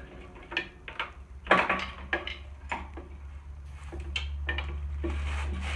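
A series of lighter, irregular metal knocks and taps, the largest about a second and a half in, as a lawn tractor engine's flywheel is struck and pried to break it loose from the crankshaft. A steady low hum runs underneath.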